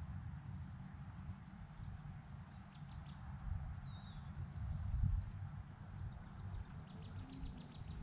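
Small birds chirping, with short high calls scattered throughout, over a steady low rumble that swells briefly about five seconds in.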